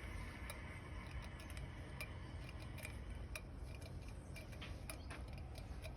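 Light metallic clicks and ticks at irregular intervals, several a second at times, from metal valve parts and tools being handled during work on a Scania cylinder head's valves, over a low steady hum.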